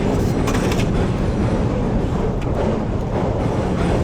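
Small rental boat's outboard motor running steadily under throttle as the boat moves, with a few brief clicks about half a second in.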